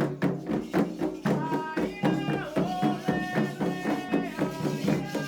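Candomblé ritual music: hand drums and percussion beating a steady fast rhythm, about four strokes a second, with voices singing long held notes from about a second in.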